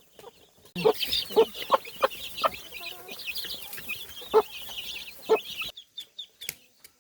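A crowd of ducklings peeping in a dense, high chorus, with a few lower, louder calls mixed in. It cuts off suddenly near the end, leaving a few single peeps.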